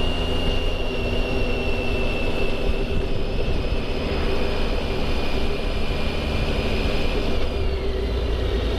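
Motorcycle riding at steady speed: engine whine over heavy wind rumble. The engine's pitch eases down near the end as the bike slows.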